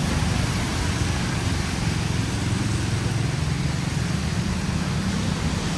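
Steady low rumble of motor vehicle engines on a city street, over an even hiss that fits rain.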